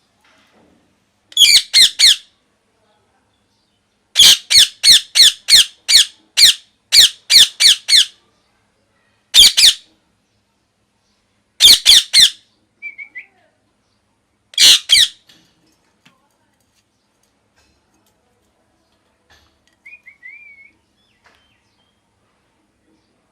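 Parrot giving loud, harsh squawks in quick runs of short calls, several a second, with pauses between runs and a faint short whistle twice later on.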